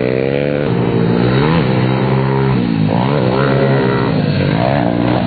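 Small single-cylinder pit bike engine running hard, its pitch repeatedly rising and dropping back as the throttle is worked, dipping sharply a little over a second and a half in and again about three seconds in.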